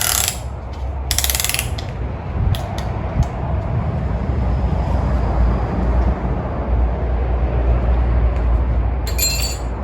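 Metal clicks and a short ratcheting rattle from a piston ring compressor and tools as a piston with the correct rings is worked down into a small-block Chevy 350 cylinder, followed by low handling noise and a brief metallic ring near the end.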